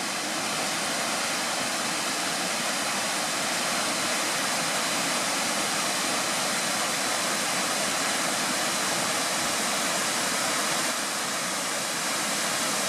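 Miners Falls, a waterfall, pouring with a steady, even rush of falling water.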